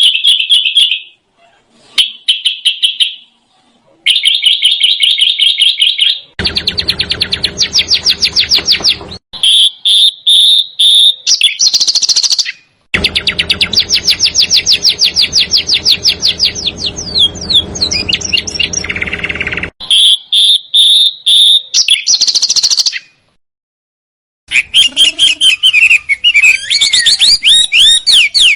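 Small songbirds singing in a series of fast, dense rolls and trills, one passage after another, with short silent gaps between. A low hum sits underneath the two longer passages.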